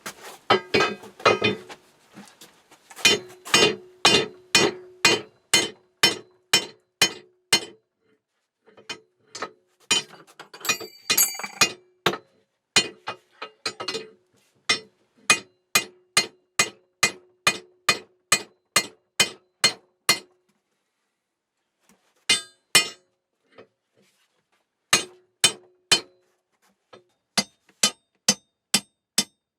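Hammer blows on a metal rod being bent into a new handle, struck in runs of about two blows a second. Each blow gives a short metallic ring, and there are brief pauses between the runs.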